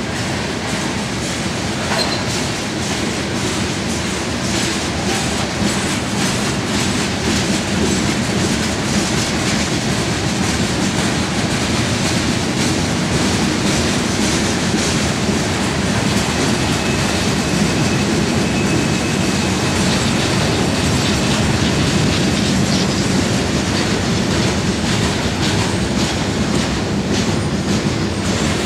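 Freight cars of a mixed freight train (tank cars, then lumber-loaded centerbeam flatcars) rolling past at steady speed: a continuous rumble of steel wheels on rail with a clickety-clack over the rail joints. A faint high wheel squeal comes in for a few seconds past the middle.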